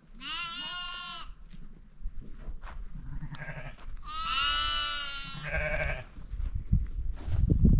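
Goats bleating: two long wavering bleats of about a second each, with shorter bleats between them. A low rumbling noise comes in after about two seconds and grows loudest near the end.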